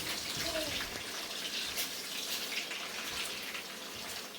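Bacon sizzling in a frying pan as it is stirred with tongs: a steady hiss with a few faint clicks.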